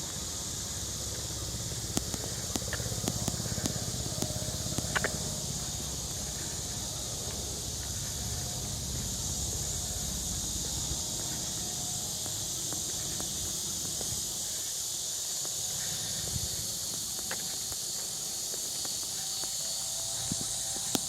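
Steady high-pitched drone of summer insects, with a low rumble through the first two-thirds and a few faint ticks and knocks.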